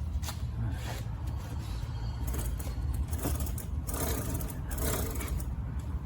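Scattered clicks and scrapes of small parts being handled, over a steady low rumble.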